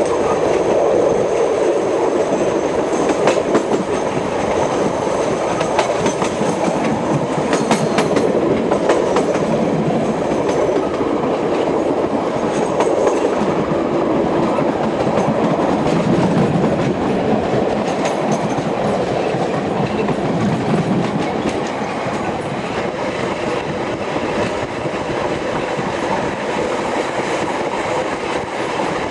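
Train running on its rails, heard from aboard: a steady rumble of wheels on track, with a few sharp clicks from the rail joints.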